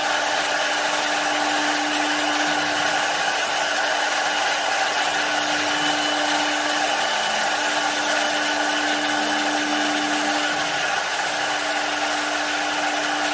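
Three-axis, six-knife CNC woodworking lathe running, cutting a spinning wood blank: a steady motor whine over a constant hiss of cutting. The whine breaks off briefly twice, about seven and eleven seconds in.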